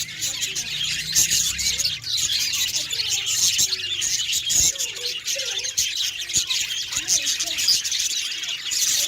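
A group of small pet parrots kept as love birds chattering continuously, a dense mix of many overlapping high chirps and squawks with no pause.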